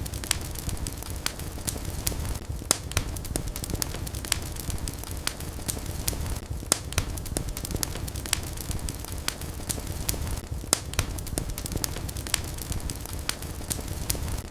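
Wood fire burning in a fireplace, crackling steadily: sharp irregular pops, several a second, over a low rumble of the flames.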